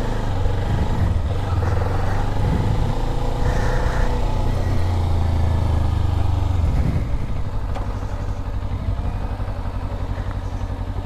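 Motorcycle engine running at low speed, its pitch shifting as it is ridden, then dropping about seven seconds in to a steady, even idle.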